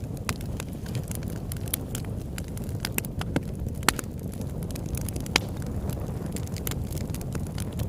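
Campfire crackling: irregular sharp pops and snaps, a few louder ones, over a steady low rumble of burning.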